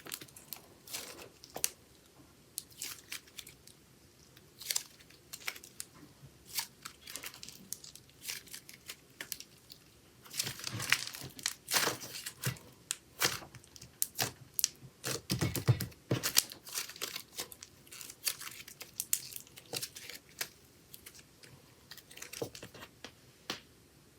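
Chocolate slime being worked by hand, pressed, stretched and folded, giving irregular sticky clicks and pops that come thickest around the middle.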